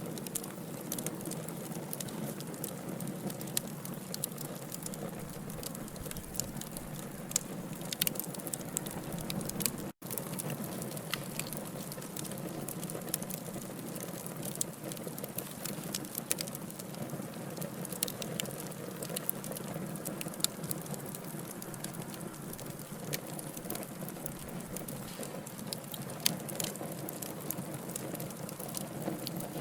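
Burning logs in a wood fire crackling, with many sharp irregular pops and snaps over a steady hiss. The sound drops out for an instant about ten seconds in.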